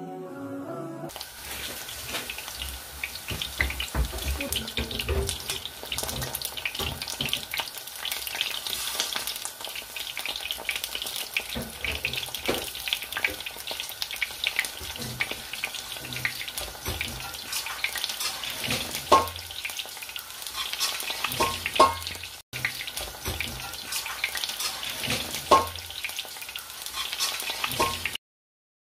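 Fritters shallow-frying in hot oil in a grill pan, giving a steady crackling sizzle, with a few sharp clicks near the end.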